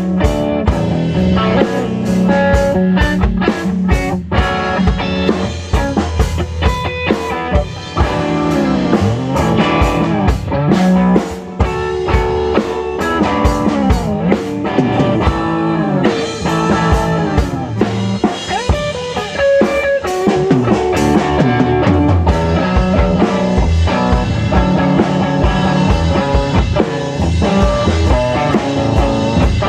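Band jamming live: electric guitar playing bending, sliding lines over a steady drum-kit beat with bass, in a psychedelic rock style, recorded raw in the room.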